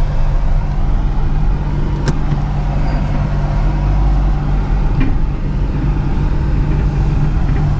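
Steady engine and road noise from inside a moving vehicle's cabin, with a couple of brief faint clicks.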